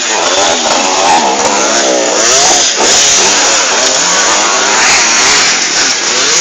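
Motocross dirt bike engines revving, several at once, their pitch rising and falling over one another.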